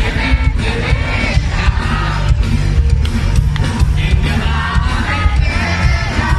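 Live pop concert music: a singer with a full band over heavy bass and a steady drum beat, with the crowd yelling along.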